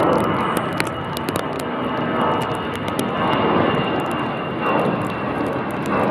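Airbus A319-112 twin turbofan jet engines at takeoff thrust: a loud, steady rushing noise that swells and eases in waves, with a faint high whine.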